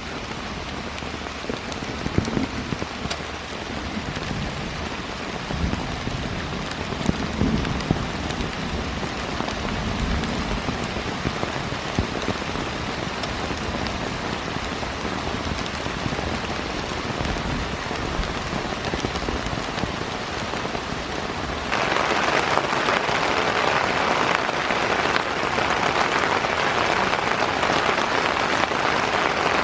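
Heavy rain falling steadily, with a few louder knocks of drops in the first ten seconds. About 22 seconds in, it suddenly becomes louder and harsher.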